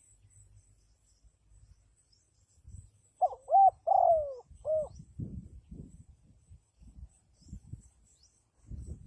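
Spotted dove cooing: one four-note phrase about three seconds in, the third note longer and falling in pitch, over low irregular thuds.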